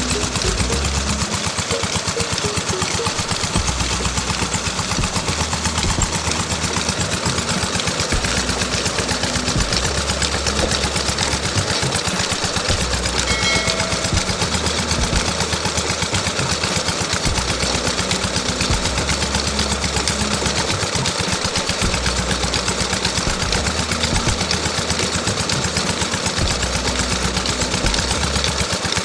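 Small DC hobby motor of a toy tractor running steadily, driving a model chaff-cutter mechanism with a fast, even mechanical rattle.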